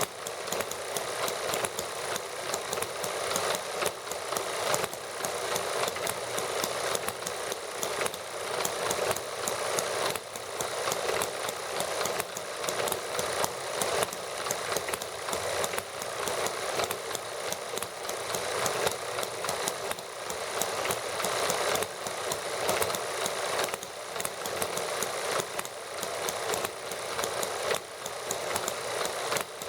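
Small model gasoline engines running steadily, a fast, even patter of firing clicks and mechanical clatter.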